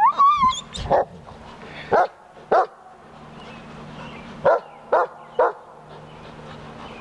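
Puppies barking as they play-fight: a high rising yelp at the start, then about six short barks, some in quick pairs and threes.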